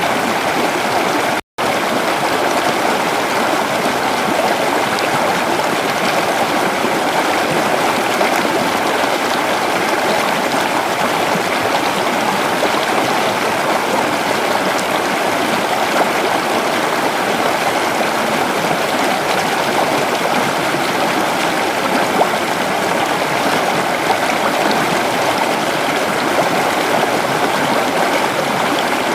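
Creek water running steadily over rocks, an even rushing and gurgling flow. It cuts out completely for an instant about a second and a half in.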